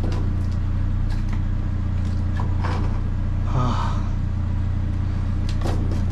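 A vehicle engine idling steadily with a low, even hum, over which come scattered light clicks and knocks and a brief squeak about halfway through.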